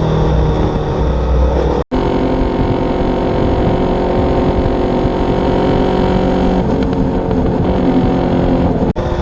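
Yamaha YZF-R3 parallel-twin engine running through an Akrapovic exhaust, held at fairly steady revs. The sound cuts out for an instant about two seconds in and again near the end.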